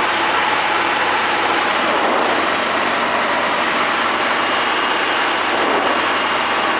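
Steady cockpit drone of a Cessna 210D's six-cylinder Continental engine and propeller in flight on approach, an even unchanging noise.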